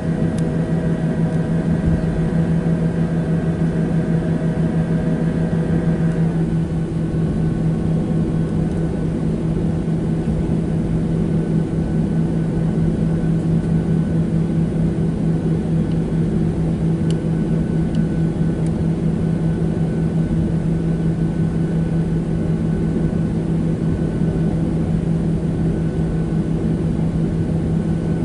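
Steady cabin drone inside a Boeing 737-700 after landing: a constant low hum with several higher tones that cut off about six seconds in.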